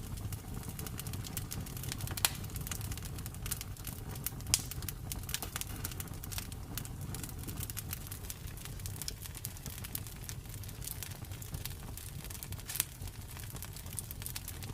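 Campfire crackling: a dense, irregular run of small snaps and ticks over a steady low rumble, with a few sharper, louder pops at about two seconds, four and a half seconds, and again near the end.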